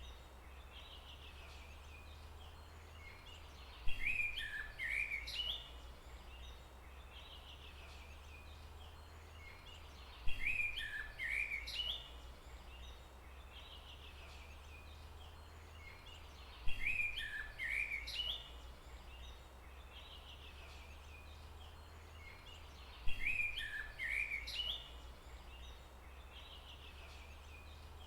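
A songbird singing a short phrase of quick chirps, repeated four times about every six and a half seconds and the same each time, over a faint steady low rumble.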